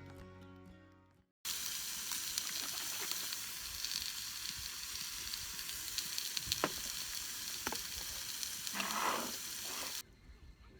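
Background music fading out, then food sizzling as it cooks over heat: a steady hiss with scattered small pops that cuts off suddenly near the end.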